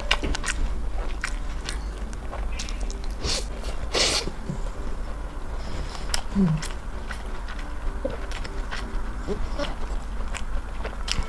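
Close-miked eating: chewing and biting with wet mouth clicks and smacks, one louder noisy bite or slurp about four seconds in, over a steady low hum.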